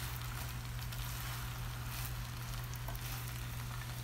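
Spinach leaves sizzling in hot oil in a nonstick pan over high heat, wilting and giving up their water, as they are turned with a silicone spatula. A steady low hum runs underneath the even hiss.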